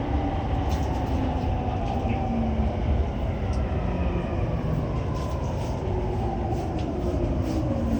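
Interior running sound of a JR East E231 series 800-subseries commuter train slowing for a station. The inverter and traction motor whine falls steadily in pitch as it brakes, over a steady rumble of wheels on rail.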